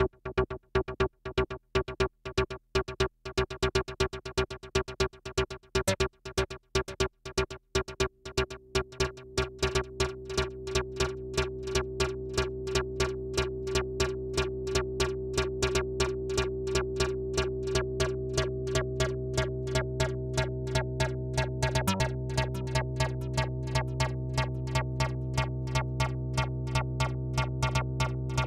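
Malekko Manther analog synthesizer playing a fast repeating sequence of short, clipped notes. About ten seconds in, the notes lengthen and run together into a held, buzzing tone as the parameters are tweaked.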